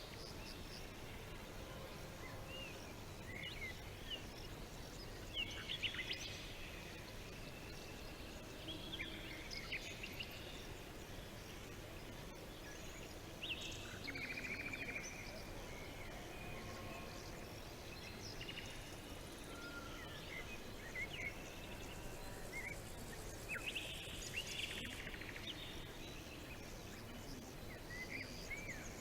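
Several birds chirping and trilling at intervals over a steady background hiss of outdoor ambience.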